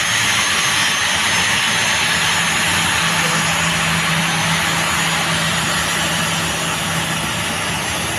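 Jet engines of the Indonesian presidential Boeing 737 business jet at takeoff power: a loud, steady rushing noise with a strong hiss and a low steady hum, easing slightly toward the end.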